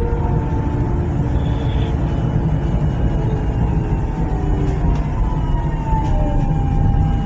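Nuremberg tram running, heard from on board: a steady low rumble of wheels and running gear with the electric traction drive's whine, thin tones that hold and then slide in pitch about six seconds in.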